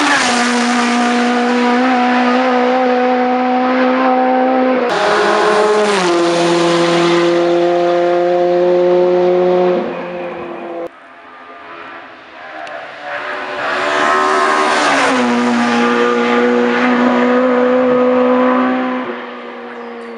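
Hillclimb race cars at full throttle passing close by one after another. Each engine note drops sharply in pitch as the car goes past, then holds steady as it pulls away, three times in all. The sound changes abruptly about 5 seconds in and again about 11 seconds in.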